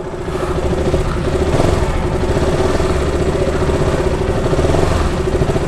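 Motorcycle engine running steadily at idle, growing louder over the first second and then holding even.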